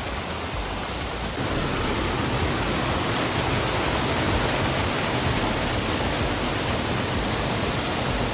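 Water cascading over the edge of a 100-to-150-foot waterfall: a steady, forceful rush of falling water. It steps up louder about a second and a half in.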